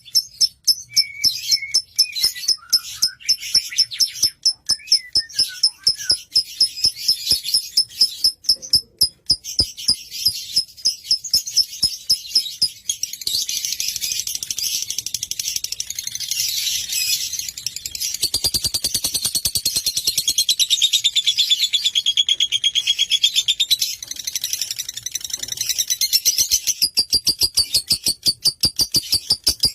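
Lovebird chattering song: high chirps repeated rapidly and evenly, about three to four a second, running together into a denser continuous trill about halfway through.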